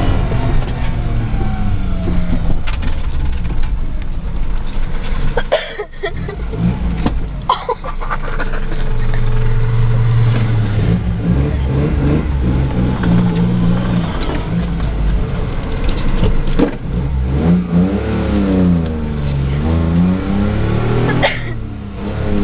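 A 1997 Geo Metro's three-cylinder engine heard from inside the cabin while driving on a rough trail, its pitch rising and falling as it revs up and down. A few sharp knocks from the car body sound along the way.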